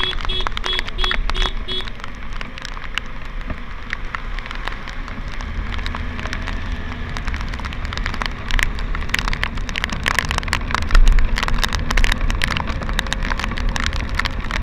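Motorcycle riding in rain: steady low rumble of engine and wind, with many sharp ticks of raindrops striking. A rapid, evenly repeating beep sounds for the first couple of seconds, then stops.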